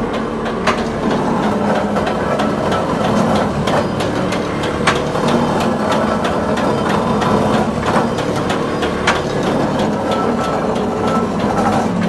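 Glass mosaic production machinery running: a steady mechanical hum overlaid with frequent, irregular sharp clicks and knocks.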